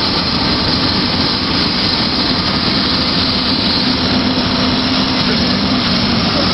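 A heavy vehicle's engine running steadily, a constant broad noise with a low steady hum and no change in speed.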